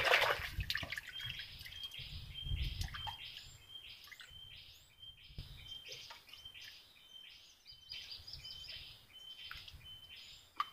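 A bird calling steadily, the same short high note repeated over and over, about twice a second, with a brief rush of water-like noise right at the start and low wind-like rumble underneath.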